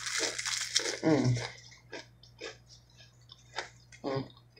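Fortune cookie being bitten and chewed close to the microphone: a rustle at first, then scattered short crisp crunches. A brief hummed 'mm' comes about a second in.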